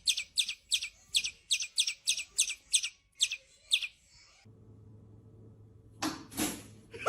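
Birds chirping sharply and rapidly, about three calls a second, sounding angry. The chirping stops about four seconds in, giving way to a low steady hum and a couple of short rustling noises near the end.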